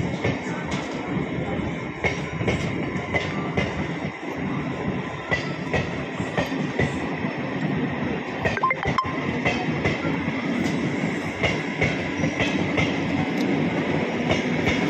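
MEMU electric passenger train running away along the adjacent track: a steady rail rumble with its wheels clacking over rail joints in an uneven rhythm, and a sharper double clack about nine seconds in.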